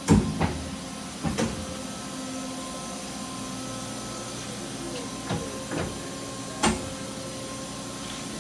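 Matsuura H Plus 300 horizontal machining center running with a steady hum and a few steady tones. Several sharp knocks break in: the loudest at the very start, a pair about a second in, and more about five and six and a half seconds in.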